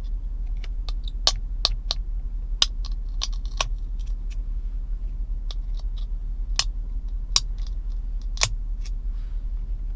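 Irregular sharp clicks and taps of eggshells being pressed onto the piercing pin of an egg cooker's plastic cup, over a steady low hum.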